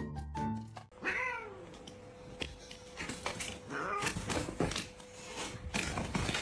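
A cat meowing several times; the first meow, about a second in, slides down in pitch. Mallet-percussion music plays briefly at the start and cuts off.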